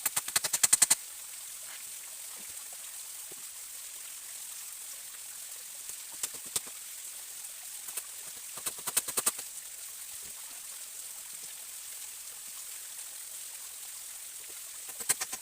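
A forest stream running steadily. Short bursts of rapid clicking come at the start, twice in the middle and again near the end.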